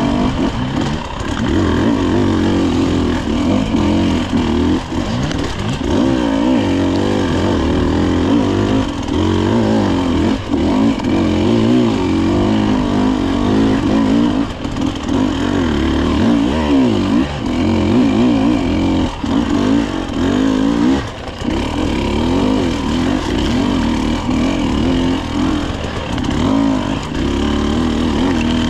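Dirt bike engine riding a tight trail, revving up and down continuously with the throttle, with brief drops in revs between pulls.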